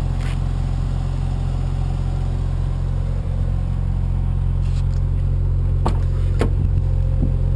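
Mazda RX-7's turbocharged rotary engine idling steadily, a low even hum. A couple of short clicks about six seconds in.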